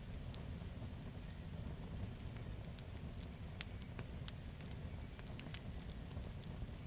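Campfire burning, with irregular crackles and pops over a low steady rumble of the flames.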